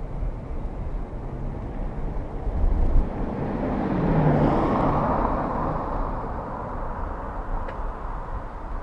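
A car passes close by, its engine and tyre noise swelling about four seconds in and then fading. A low rumble of wind on the microphone runs underneath.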